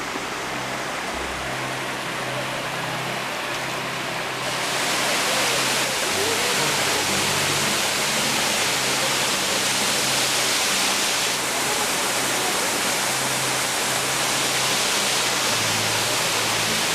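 Rushing water of a cascade, a steady dense hiss that grows louder and brighter about four seconds in.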